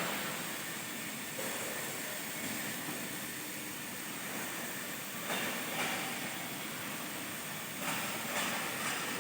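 Automatic plate-cutting machine cutting steel plate, a steady hissing noise with a few brief louder surges.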